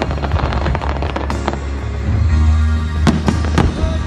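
Fireworks bursting: a rush of crackling at the start, then several single sharp bangs, two of them about half a second apart near the end. Music with a heavy bass plays alongside.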